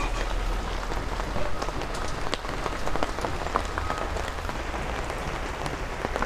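Rain falling on plastic tarpaulin stall covers and wet pavement: a steady wash of noise sprinkled with many sharp drop strikes.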